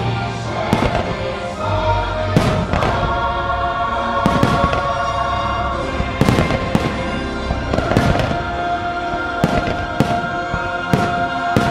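Fireworks bursting in rapid succession, sharp bangs every half second or so, over the show's orchestral soundtrack with sustained choir-like tones.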